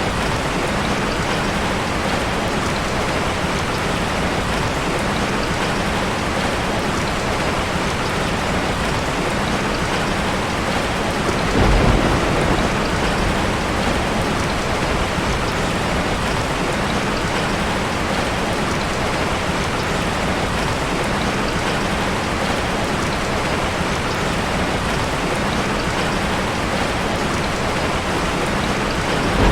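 Heavy rain falling steadily, with a roll of thunder about twelve seconds in and another beginning near the end.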